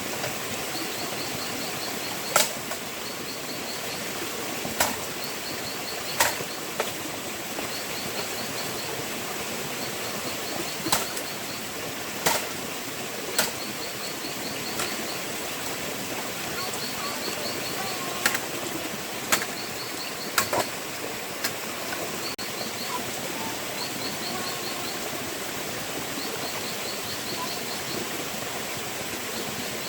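Steady rush of a forest stream, with sharp clicks or knocks now and then, about a dozen in all. Short trains of high, rapid ticks, likely an insect call, repeat every couple of seconds.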